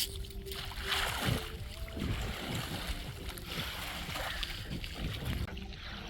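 Water splashing around a boat, uneven and irregular, with faint voices in the background.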